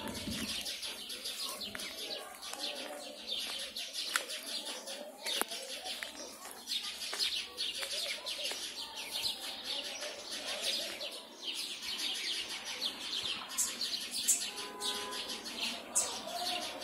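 A dense, continuous chorus of many small birds chirping and twittering in the trees, with some lower calls mixed in.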